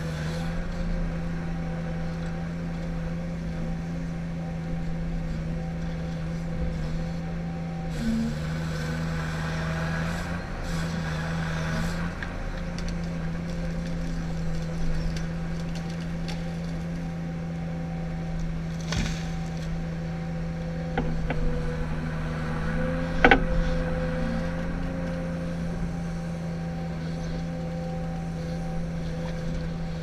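Ponsse Ergo forestry harvester's diesel engine running steadily, its note dipping briefly a few times about a third of the way in as the load changes. A few sharp cracks sound about two thirds of the way through, the loudest one near three quarters of the way in.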